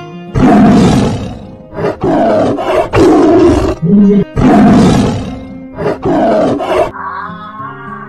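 A big cat roaring in about six loud, rough bursts over background music.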